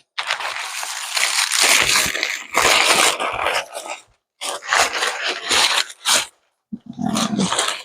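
Food wrappers being torn open and rustled by hand: crinkling and tearing noises in several stretches with short pauses between them.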